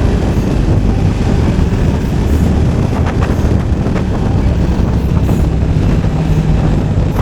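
Motorcycle engine running steadily while riding downhill, under a dense, steady low rumble.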